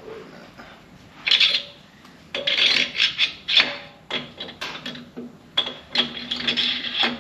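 Metal-on-metal scraping and clinking in a run of short, irregular rasping bursts, as heavy steel main bearing caps and studs are handled and fitted on a Cummins 5.9 engine block.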